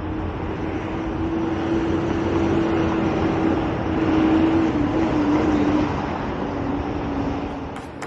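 A vehicle's steady running noise with a droning hum that grows louder towards the middle and then sags slightly in pitch.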